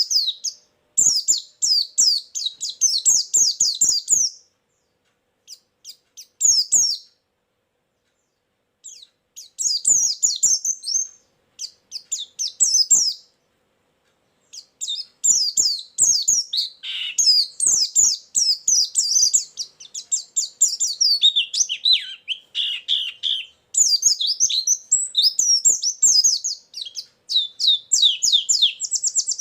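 White-eye (pleci) song from a lure recording: fast, high twittering chirps come in bouts of a second to several seconds, separated by short silences. Lower, falling notes are mixed in twice, near the middle and about two thirds through.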